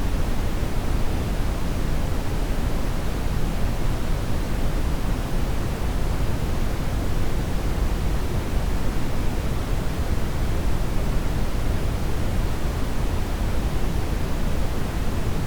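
Steady brown noise: an even, deep rushing hiss with most of its weight in the low end. It holds unchanged throughout.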